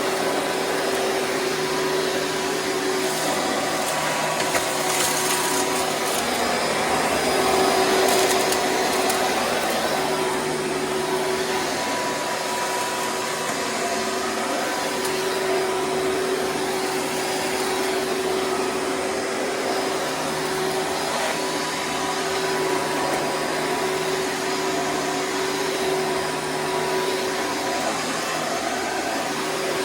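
Hoover Preferred direct-air upright vacuum running steadily, its motor and fan giving a constant whine. There are a few brief crackles a few seconds in.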